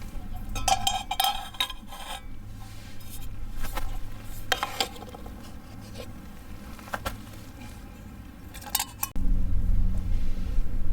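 Metal camping cookware and gear clinking and clattering as it is handled, in scattered sharp knocks. About nine seconds in it cuts abruptly to a louder steady low rumble.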